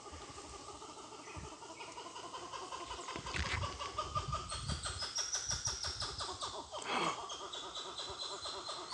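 Wild monkeys calling in the woods: a fast, pulsing chatter with high tones that rise toward the middle, and a sharp falling call about seven seconds in.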